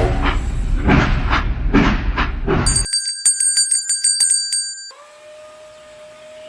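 Train sounds: a rhythmic chugging clatter, cut off abruptly about three seconds in by high ringing with a run of clicks, then a quieter steady tone.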